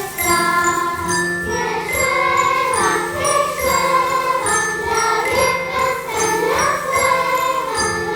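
Children's choir singing sustained, layered notes in parts, over a high tinkling, bell-like accompaniment.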